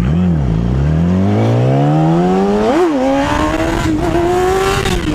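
Motorcycle engine accelerating hard. After a brief rev dip at the start, the pitch climbs steadily, shifts up a gear near the middle, then pulls on at a higher, nearly steady pitch.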